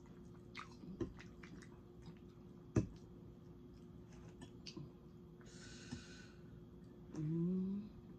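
Close-up eating sounds of soft cheesy potatoes being eaten with forks: chewing and mouth noises with scattered small clicks of forks on plates. There is one sharp click about three seconds in, a short hiss-like noise around six seconds, and a brief rising 'mmm' from a voice near the end.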